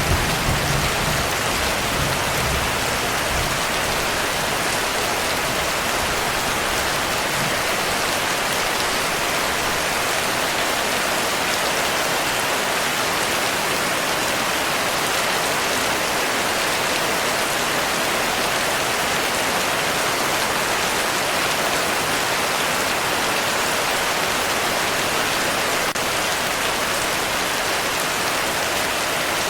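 Heavy rain falling steadily, with the low rumble of thunder dying away in the first few seconds.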